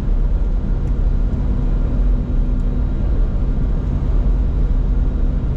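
Steady cockpit rumble of a Bombardier Challenger 605 jet during landing, a constant roar of airflow and engines with a low steady hum underneath.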